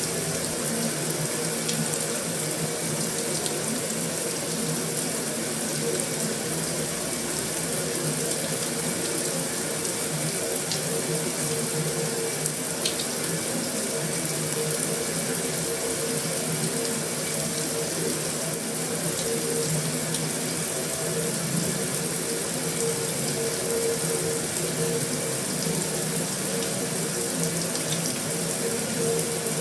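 Heavy rain falling steadily on a metal roof: a dense, even hiss with a few sharper ticks of single drops.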